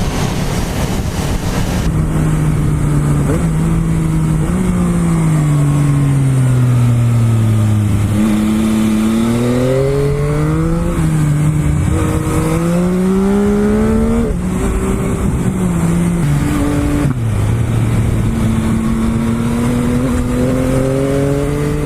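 Aprilia Tuono V4 Factory's 1100 cc V4 engine heard from on board over wind noise. Its note sinks slowly as the bike slows, then climbs again and again, with a sudden drop at each upshift, as it accelerates through the gears.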